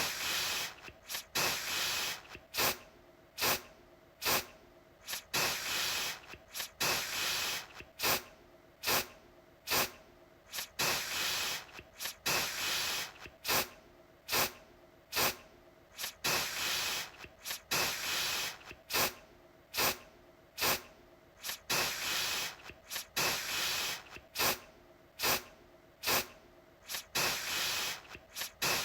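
Aerosol deodorant can spraying in short bursts again and again, each a hiss of about half a second to a second, with sharp clicks in between.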